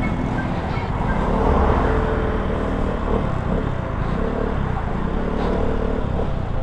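Motor vehicle engine running amid street traffic, its pitch slowly rising and falling.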